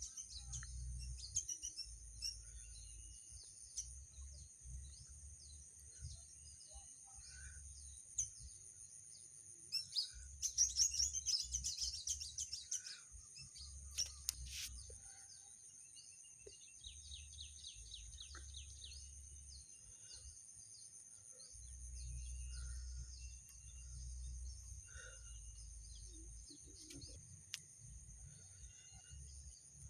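Birds chirping over a steady high-pitched hum, with a busier cluster of chirps and clicks about ten seconds in and an intermittent low rumble.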